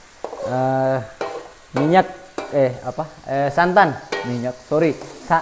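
Metal ladle stirring spice paste frying and sizzling in oil in an aluminium wok. Over it runs a louder pitched, voice-like sound that rises and falls in pitch, beginning about half a second in.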